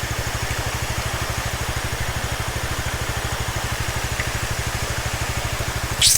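Bajaj Dominar 250's single-cylinder engine idling with an even, fast low pulse, under a steady hiss. A short sharp hiss comes near the end.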